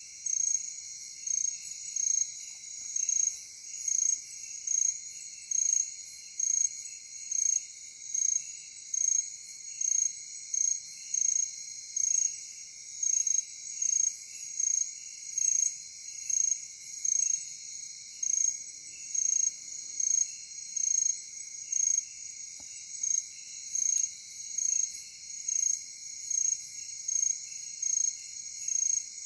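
Night insect chorus in a forest: a loud, high chirp repeating evenly a little faster than once a second over a steady, high trilling from other insects.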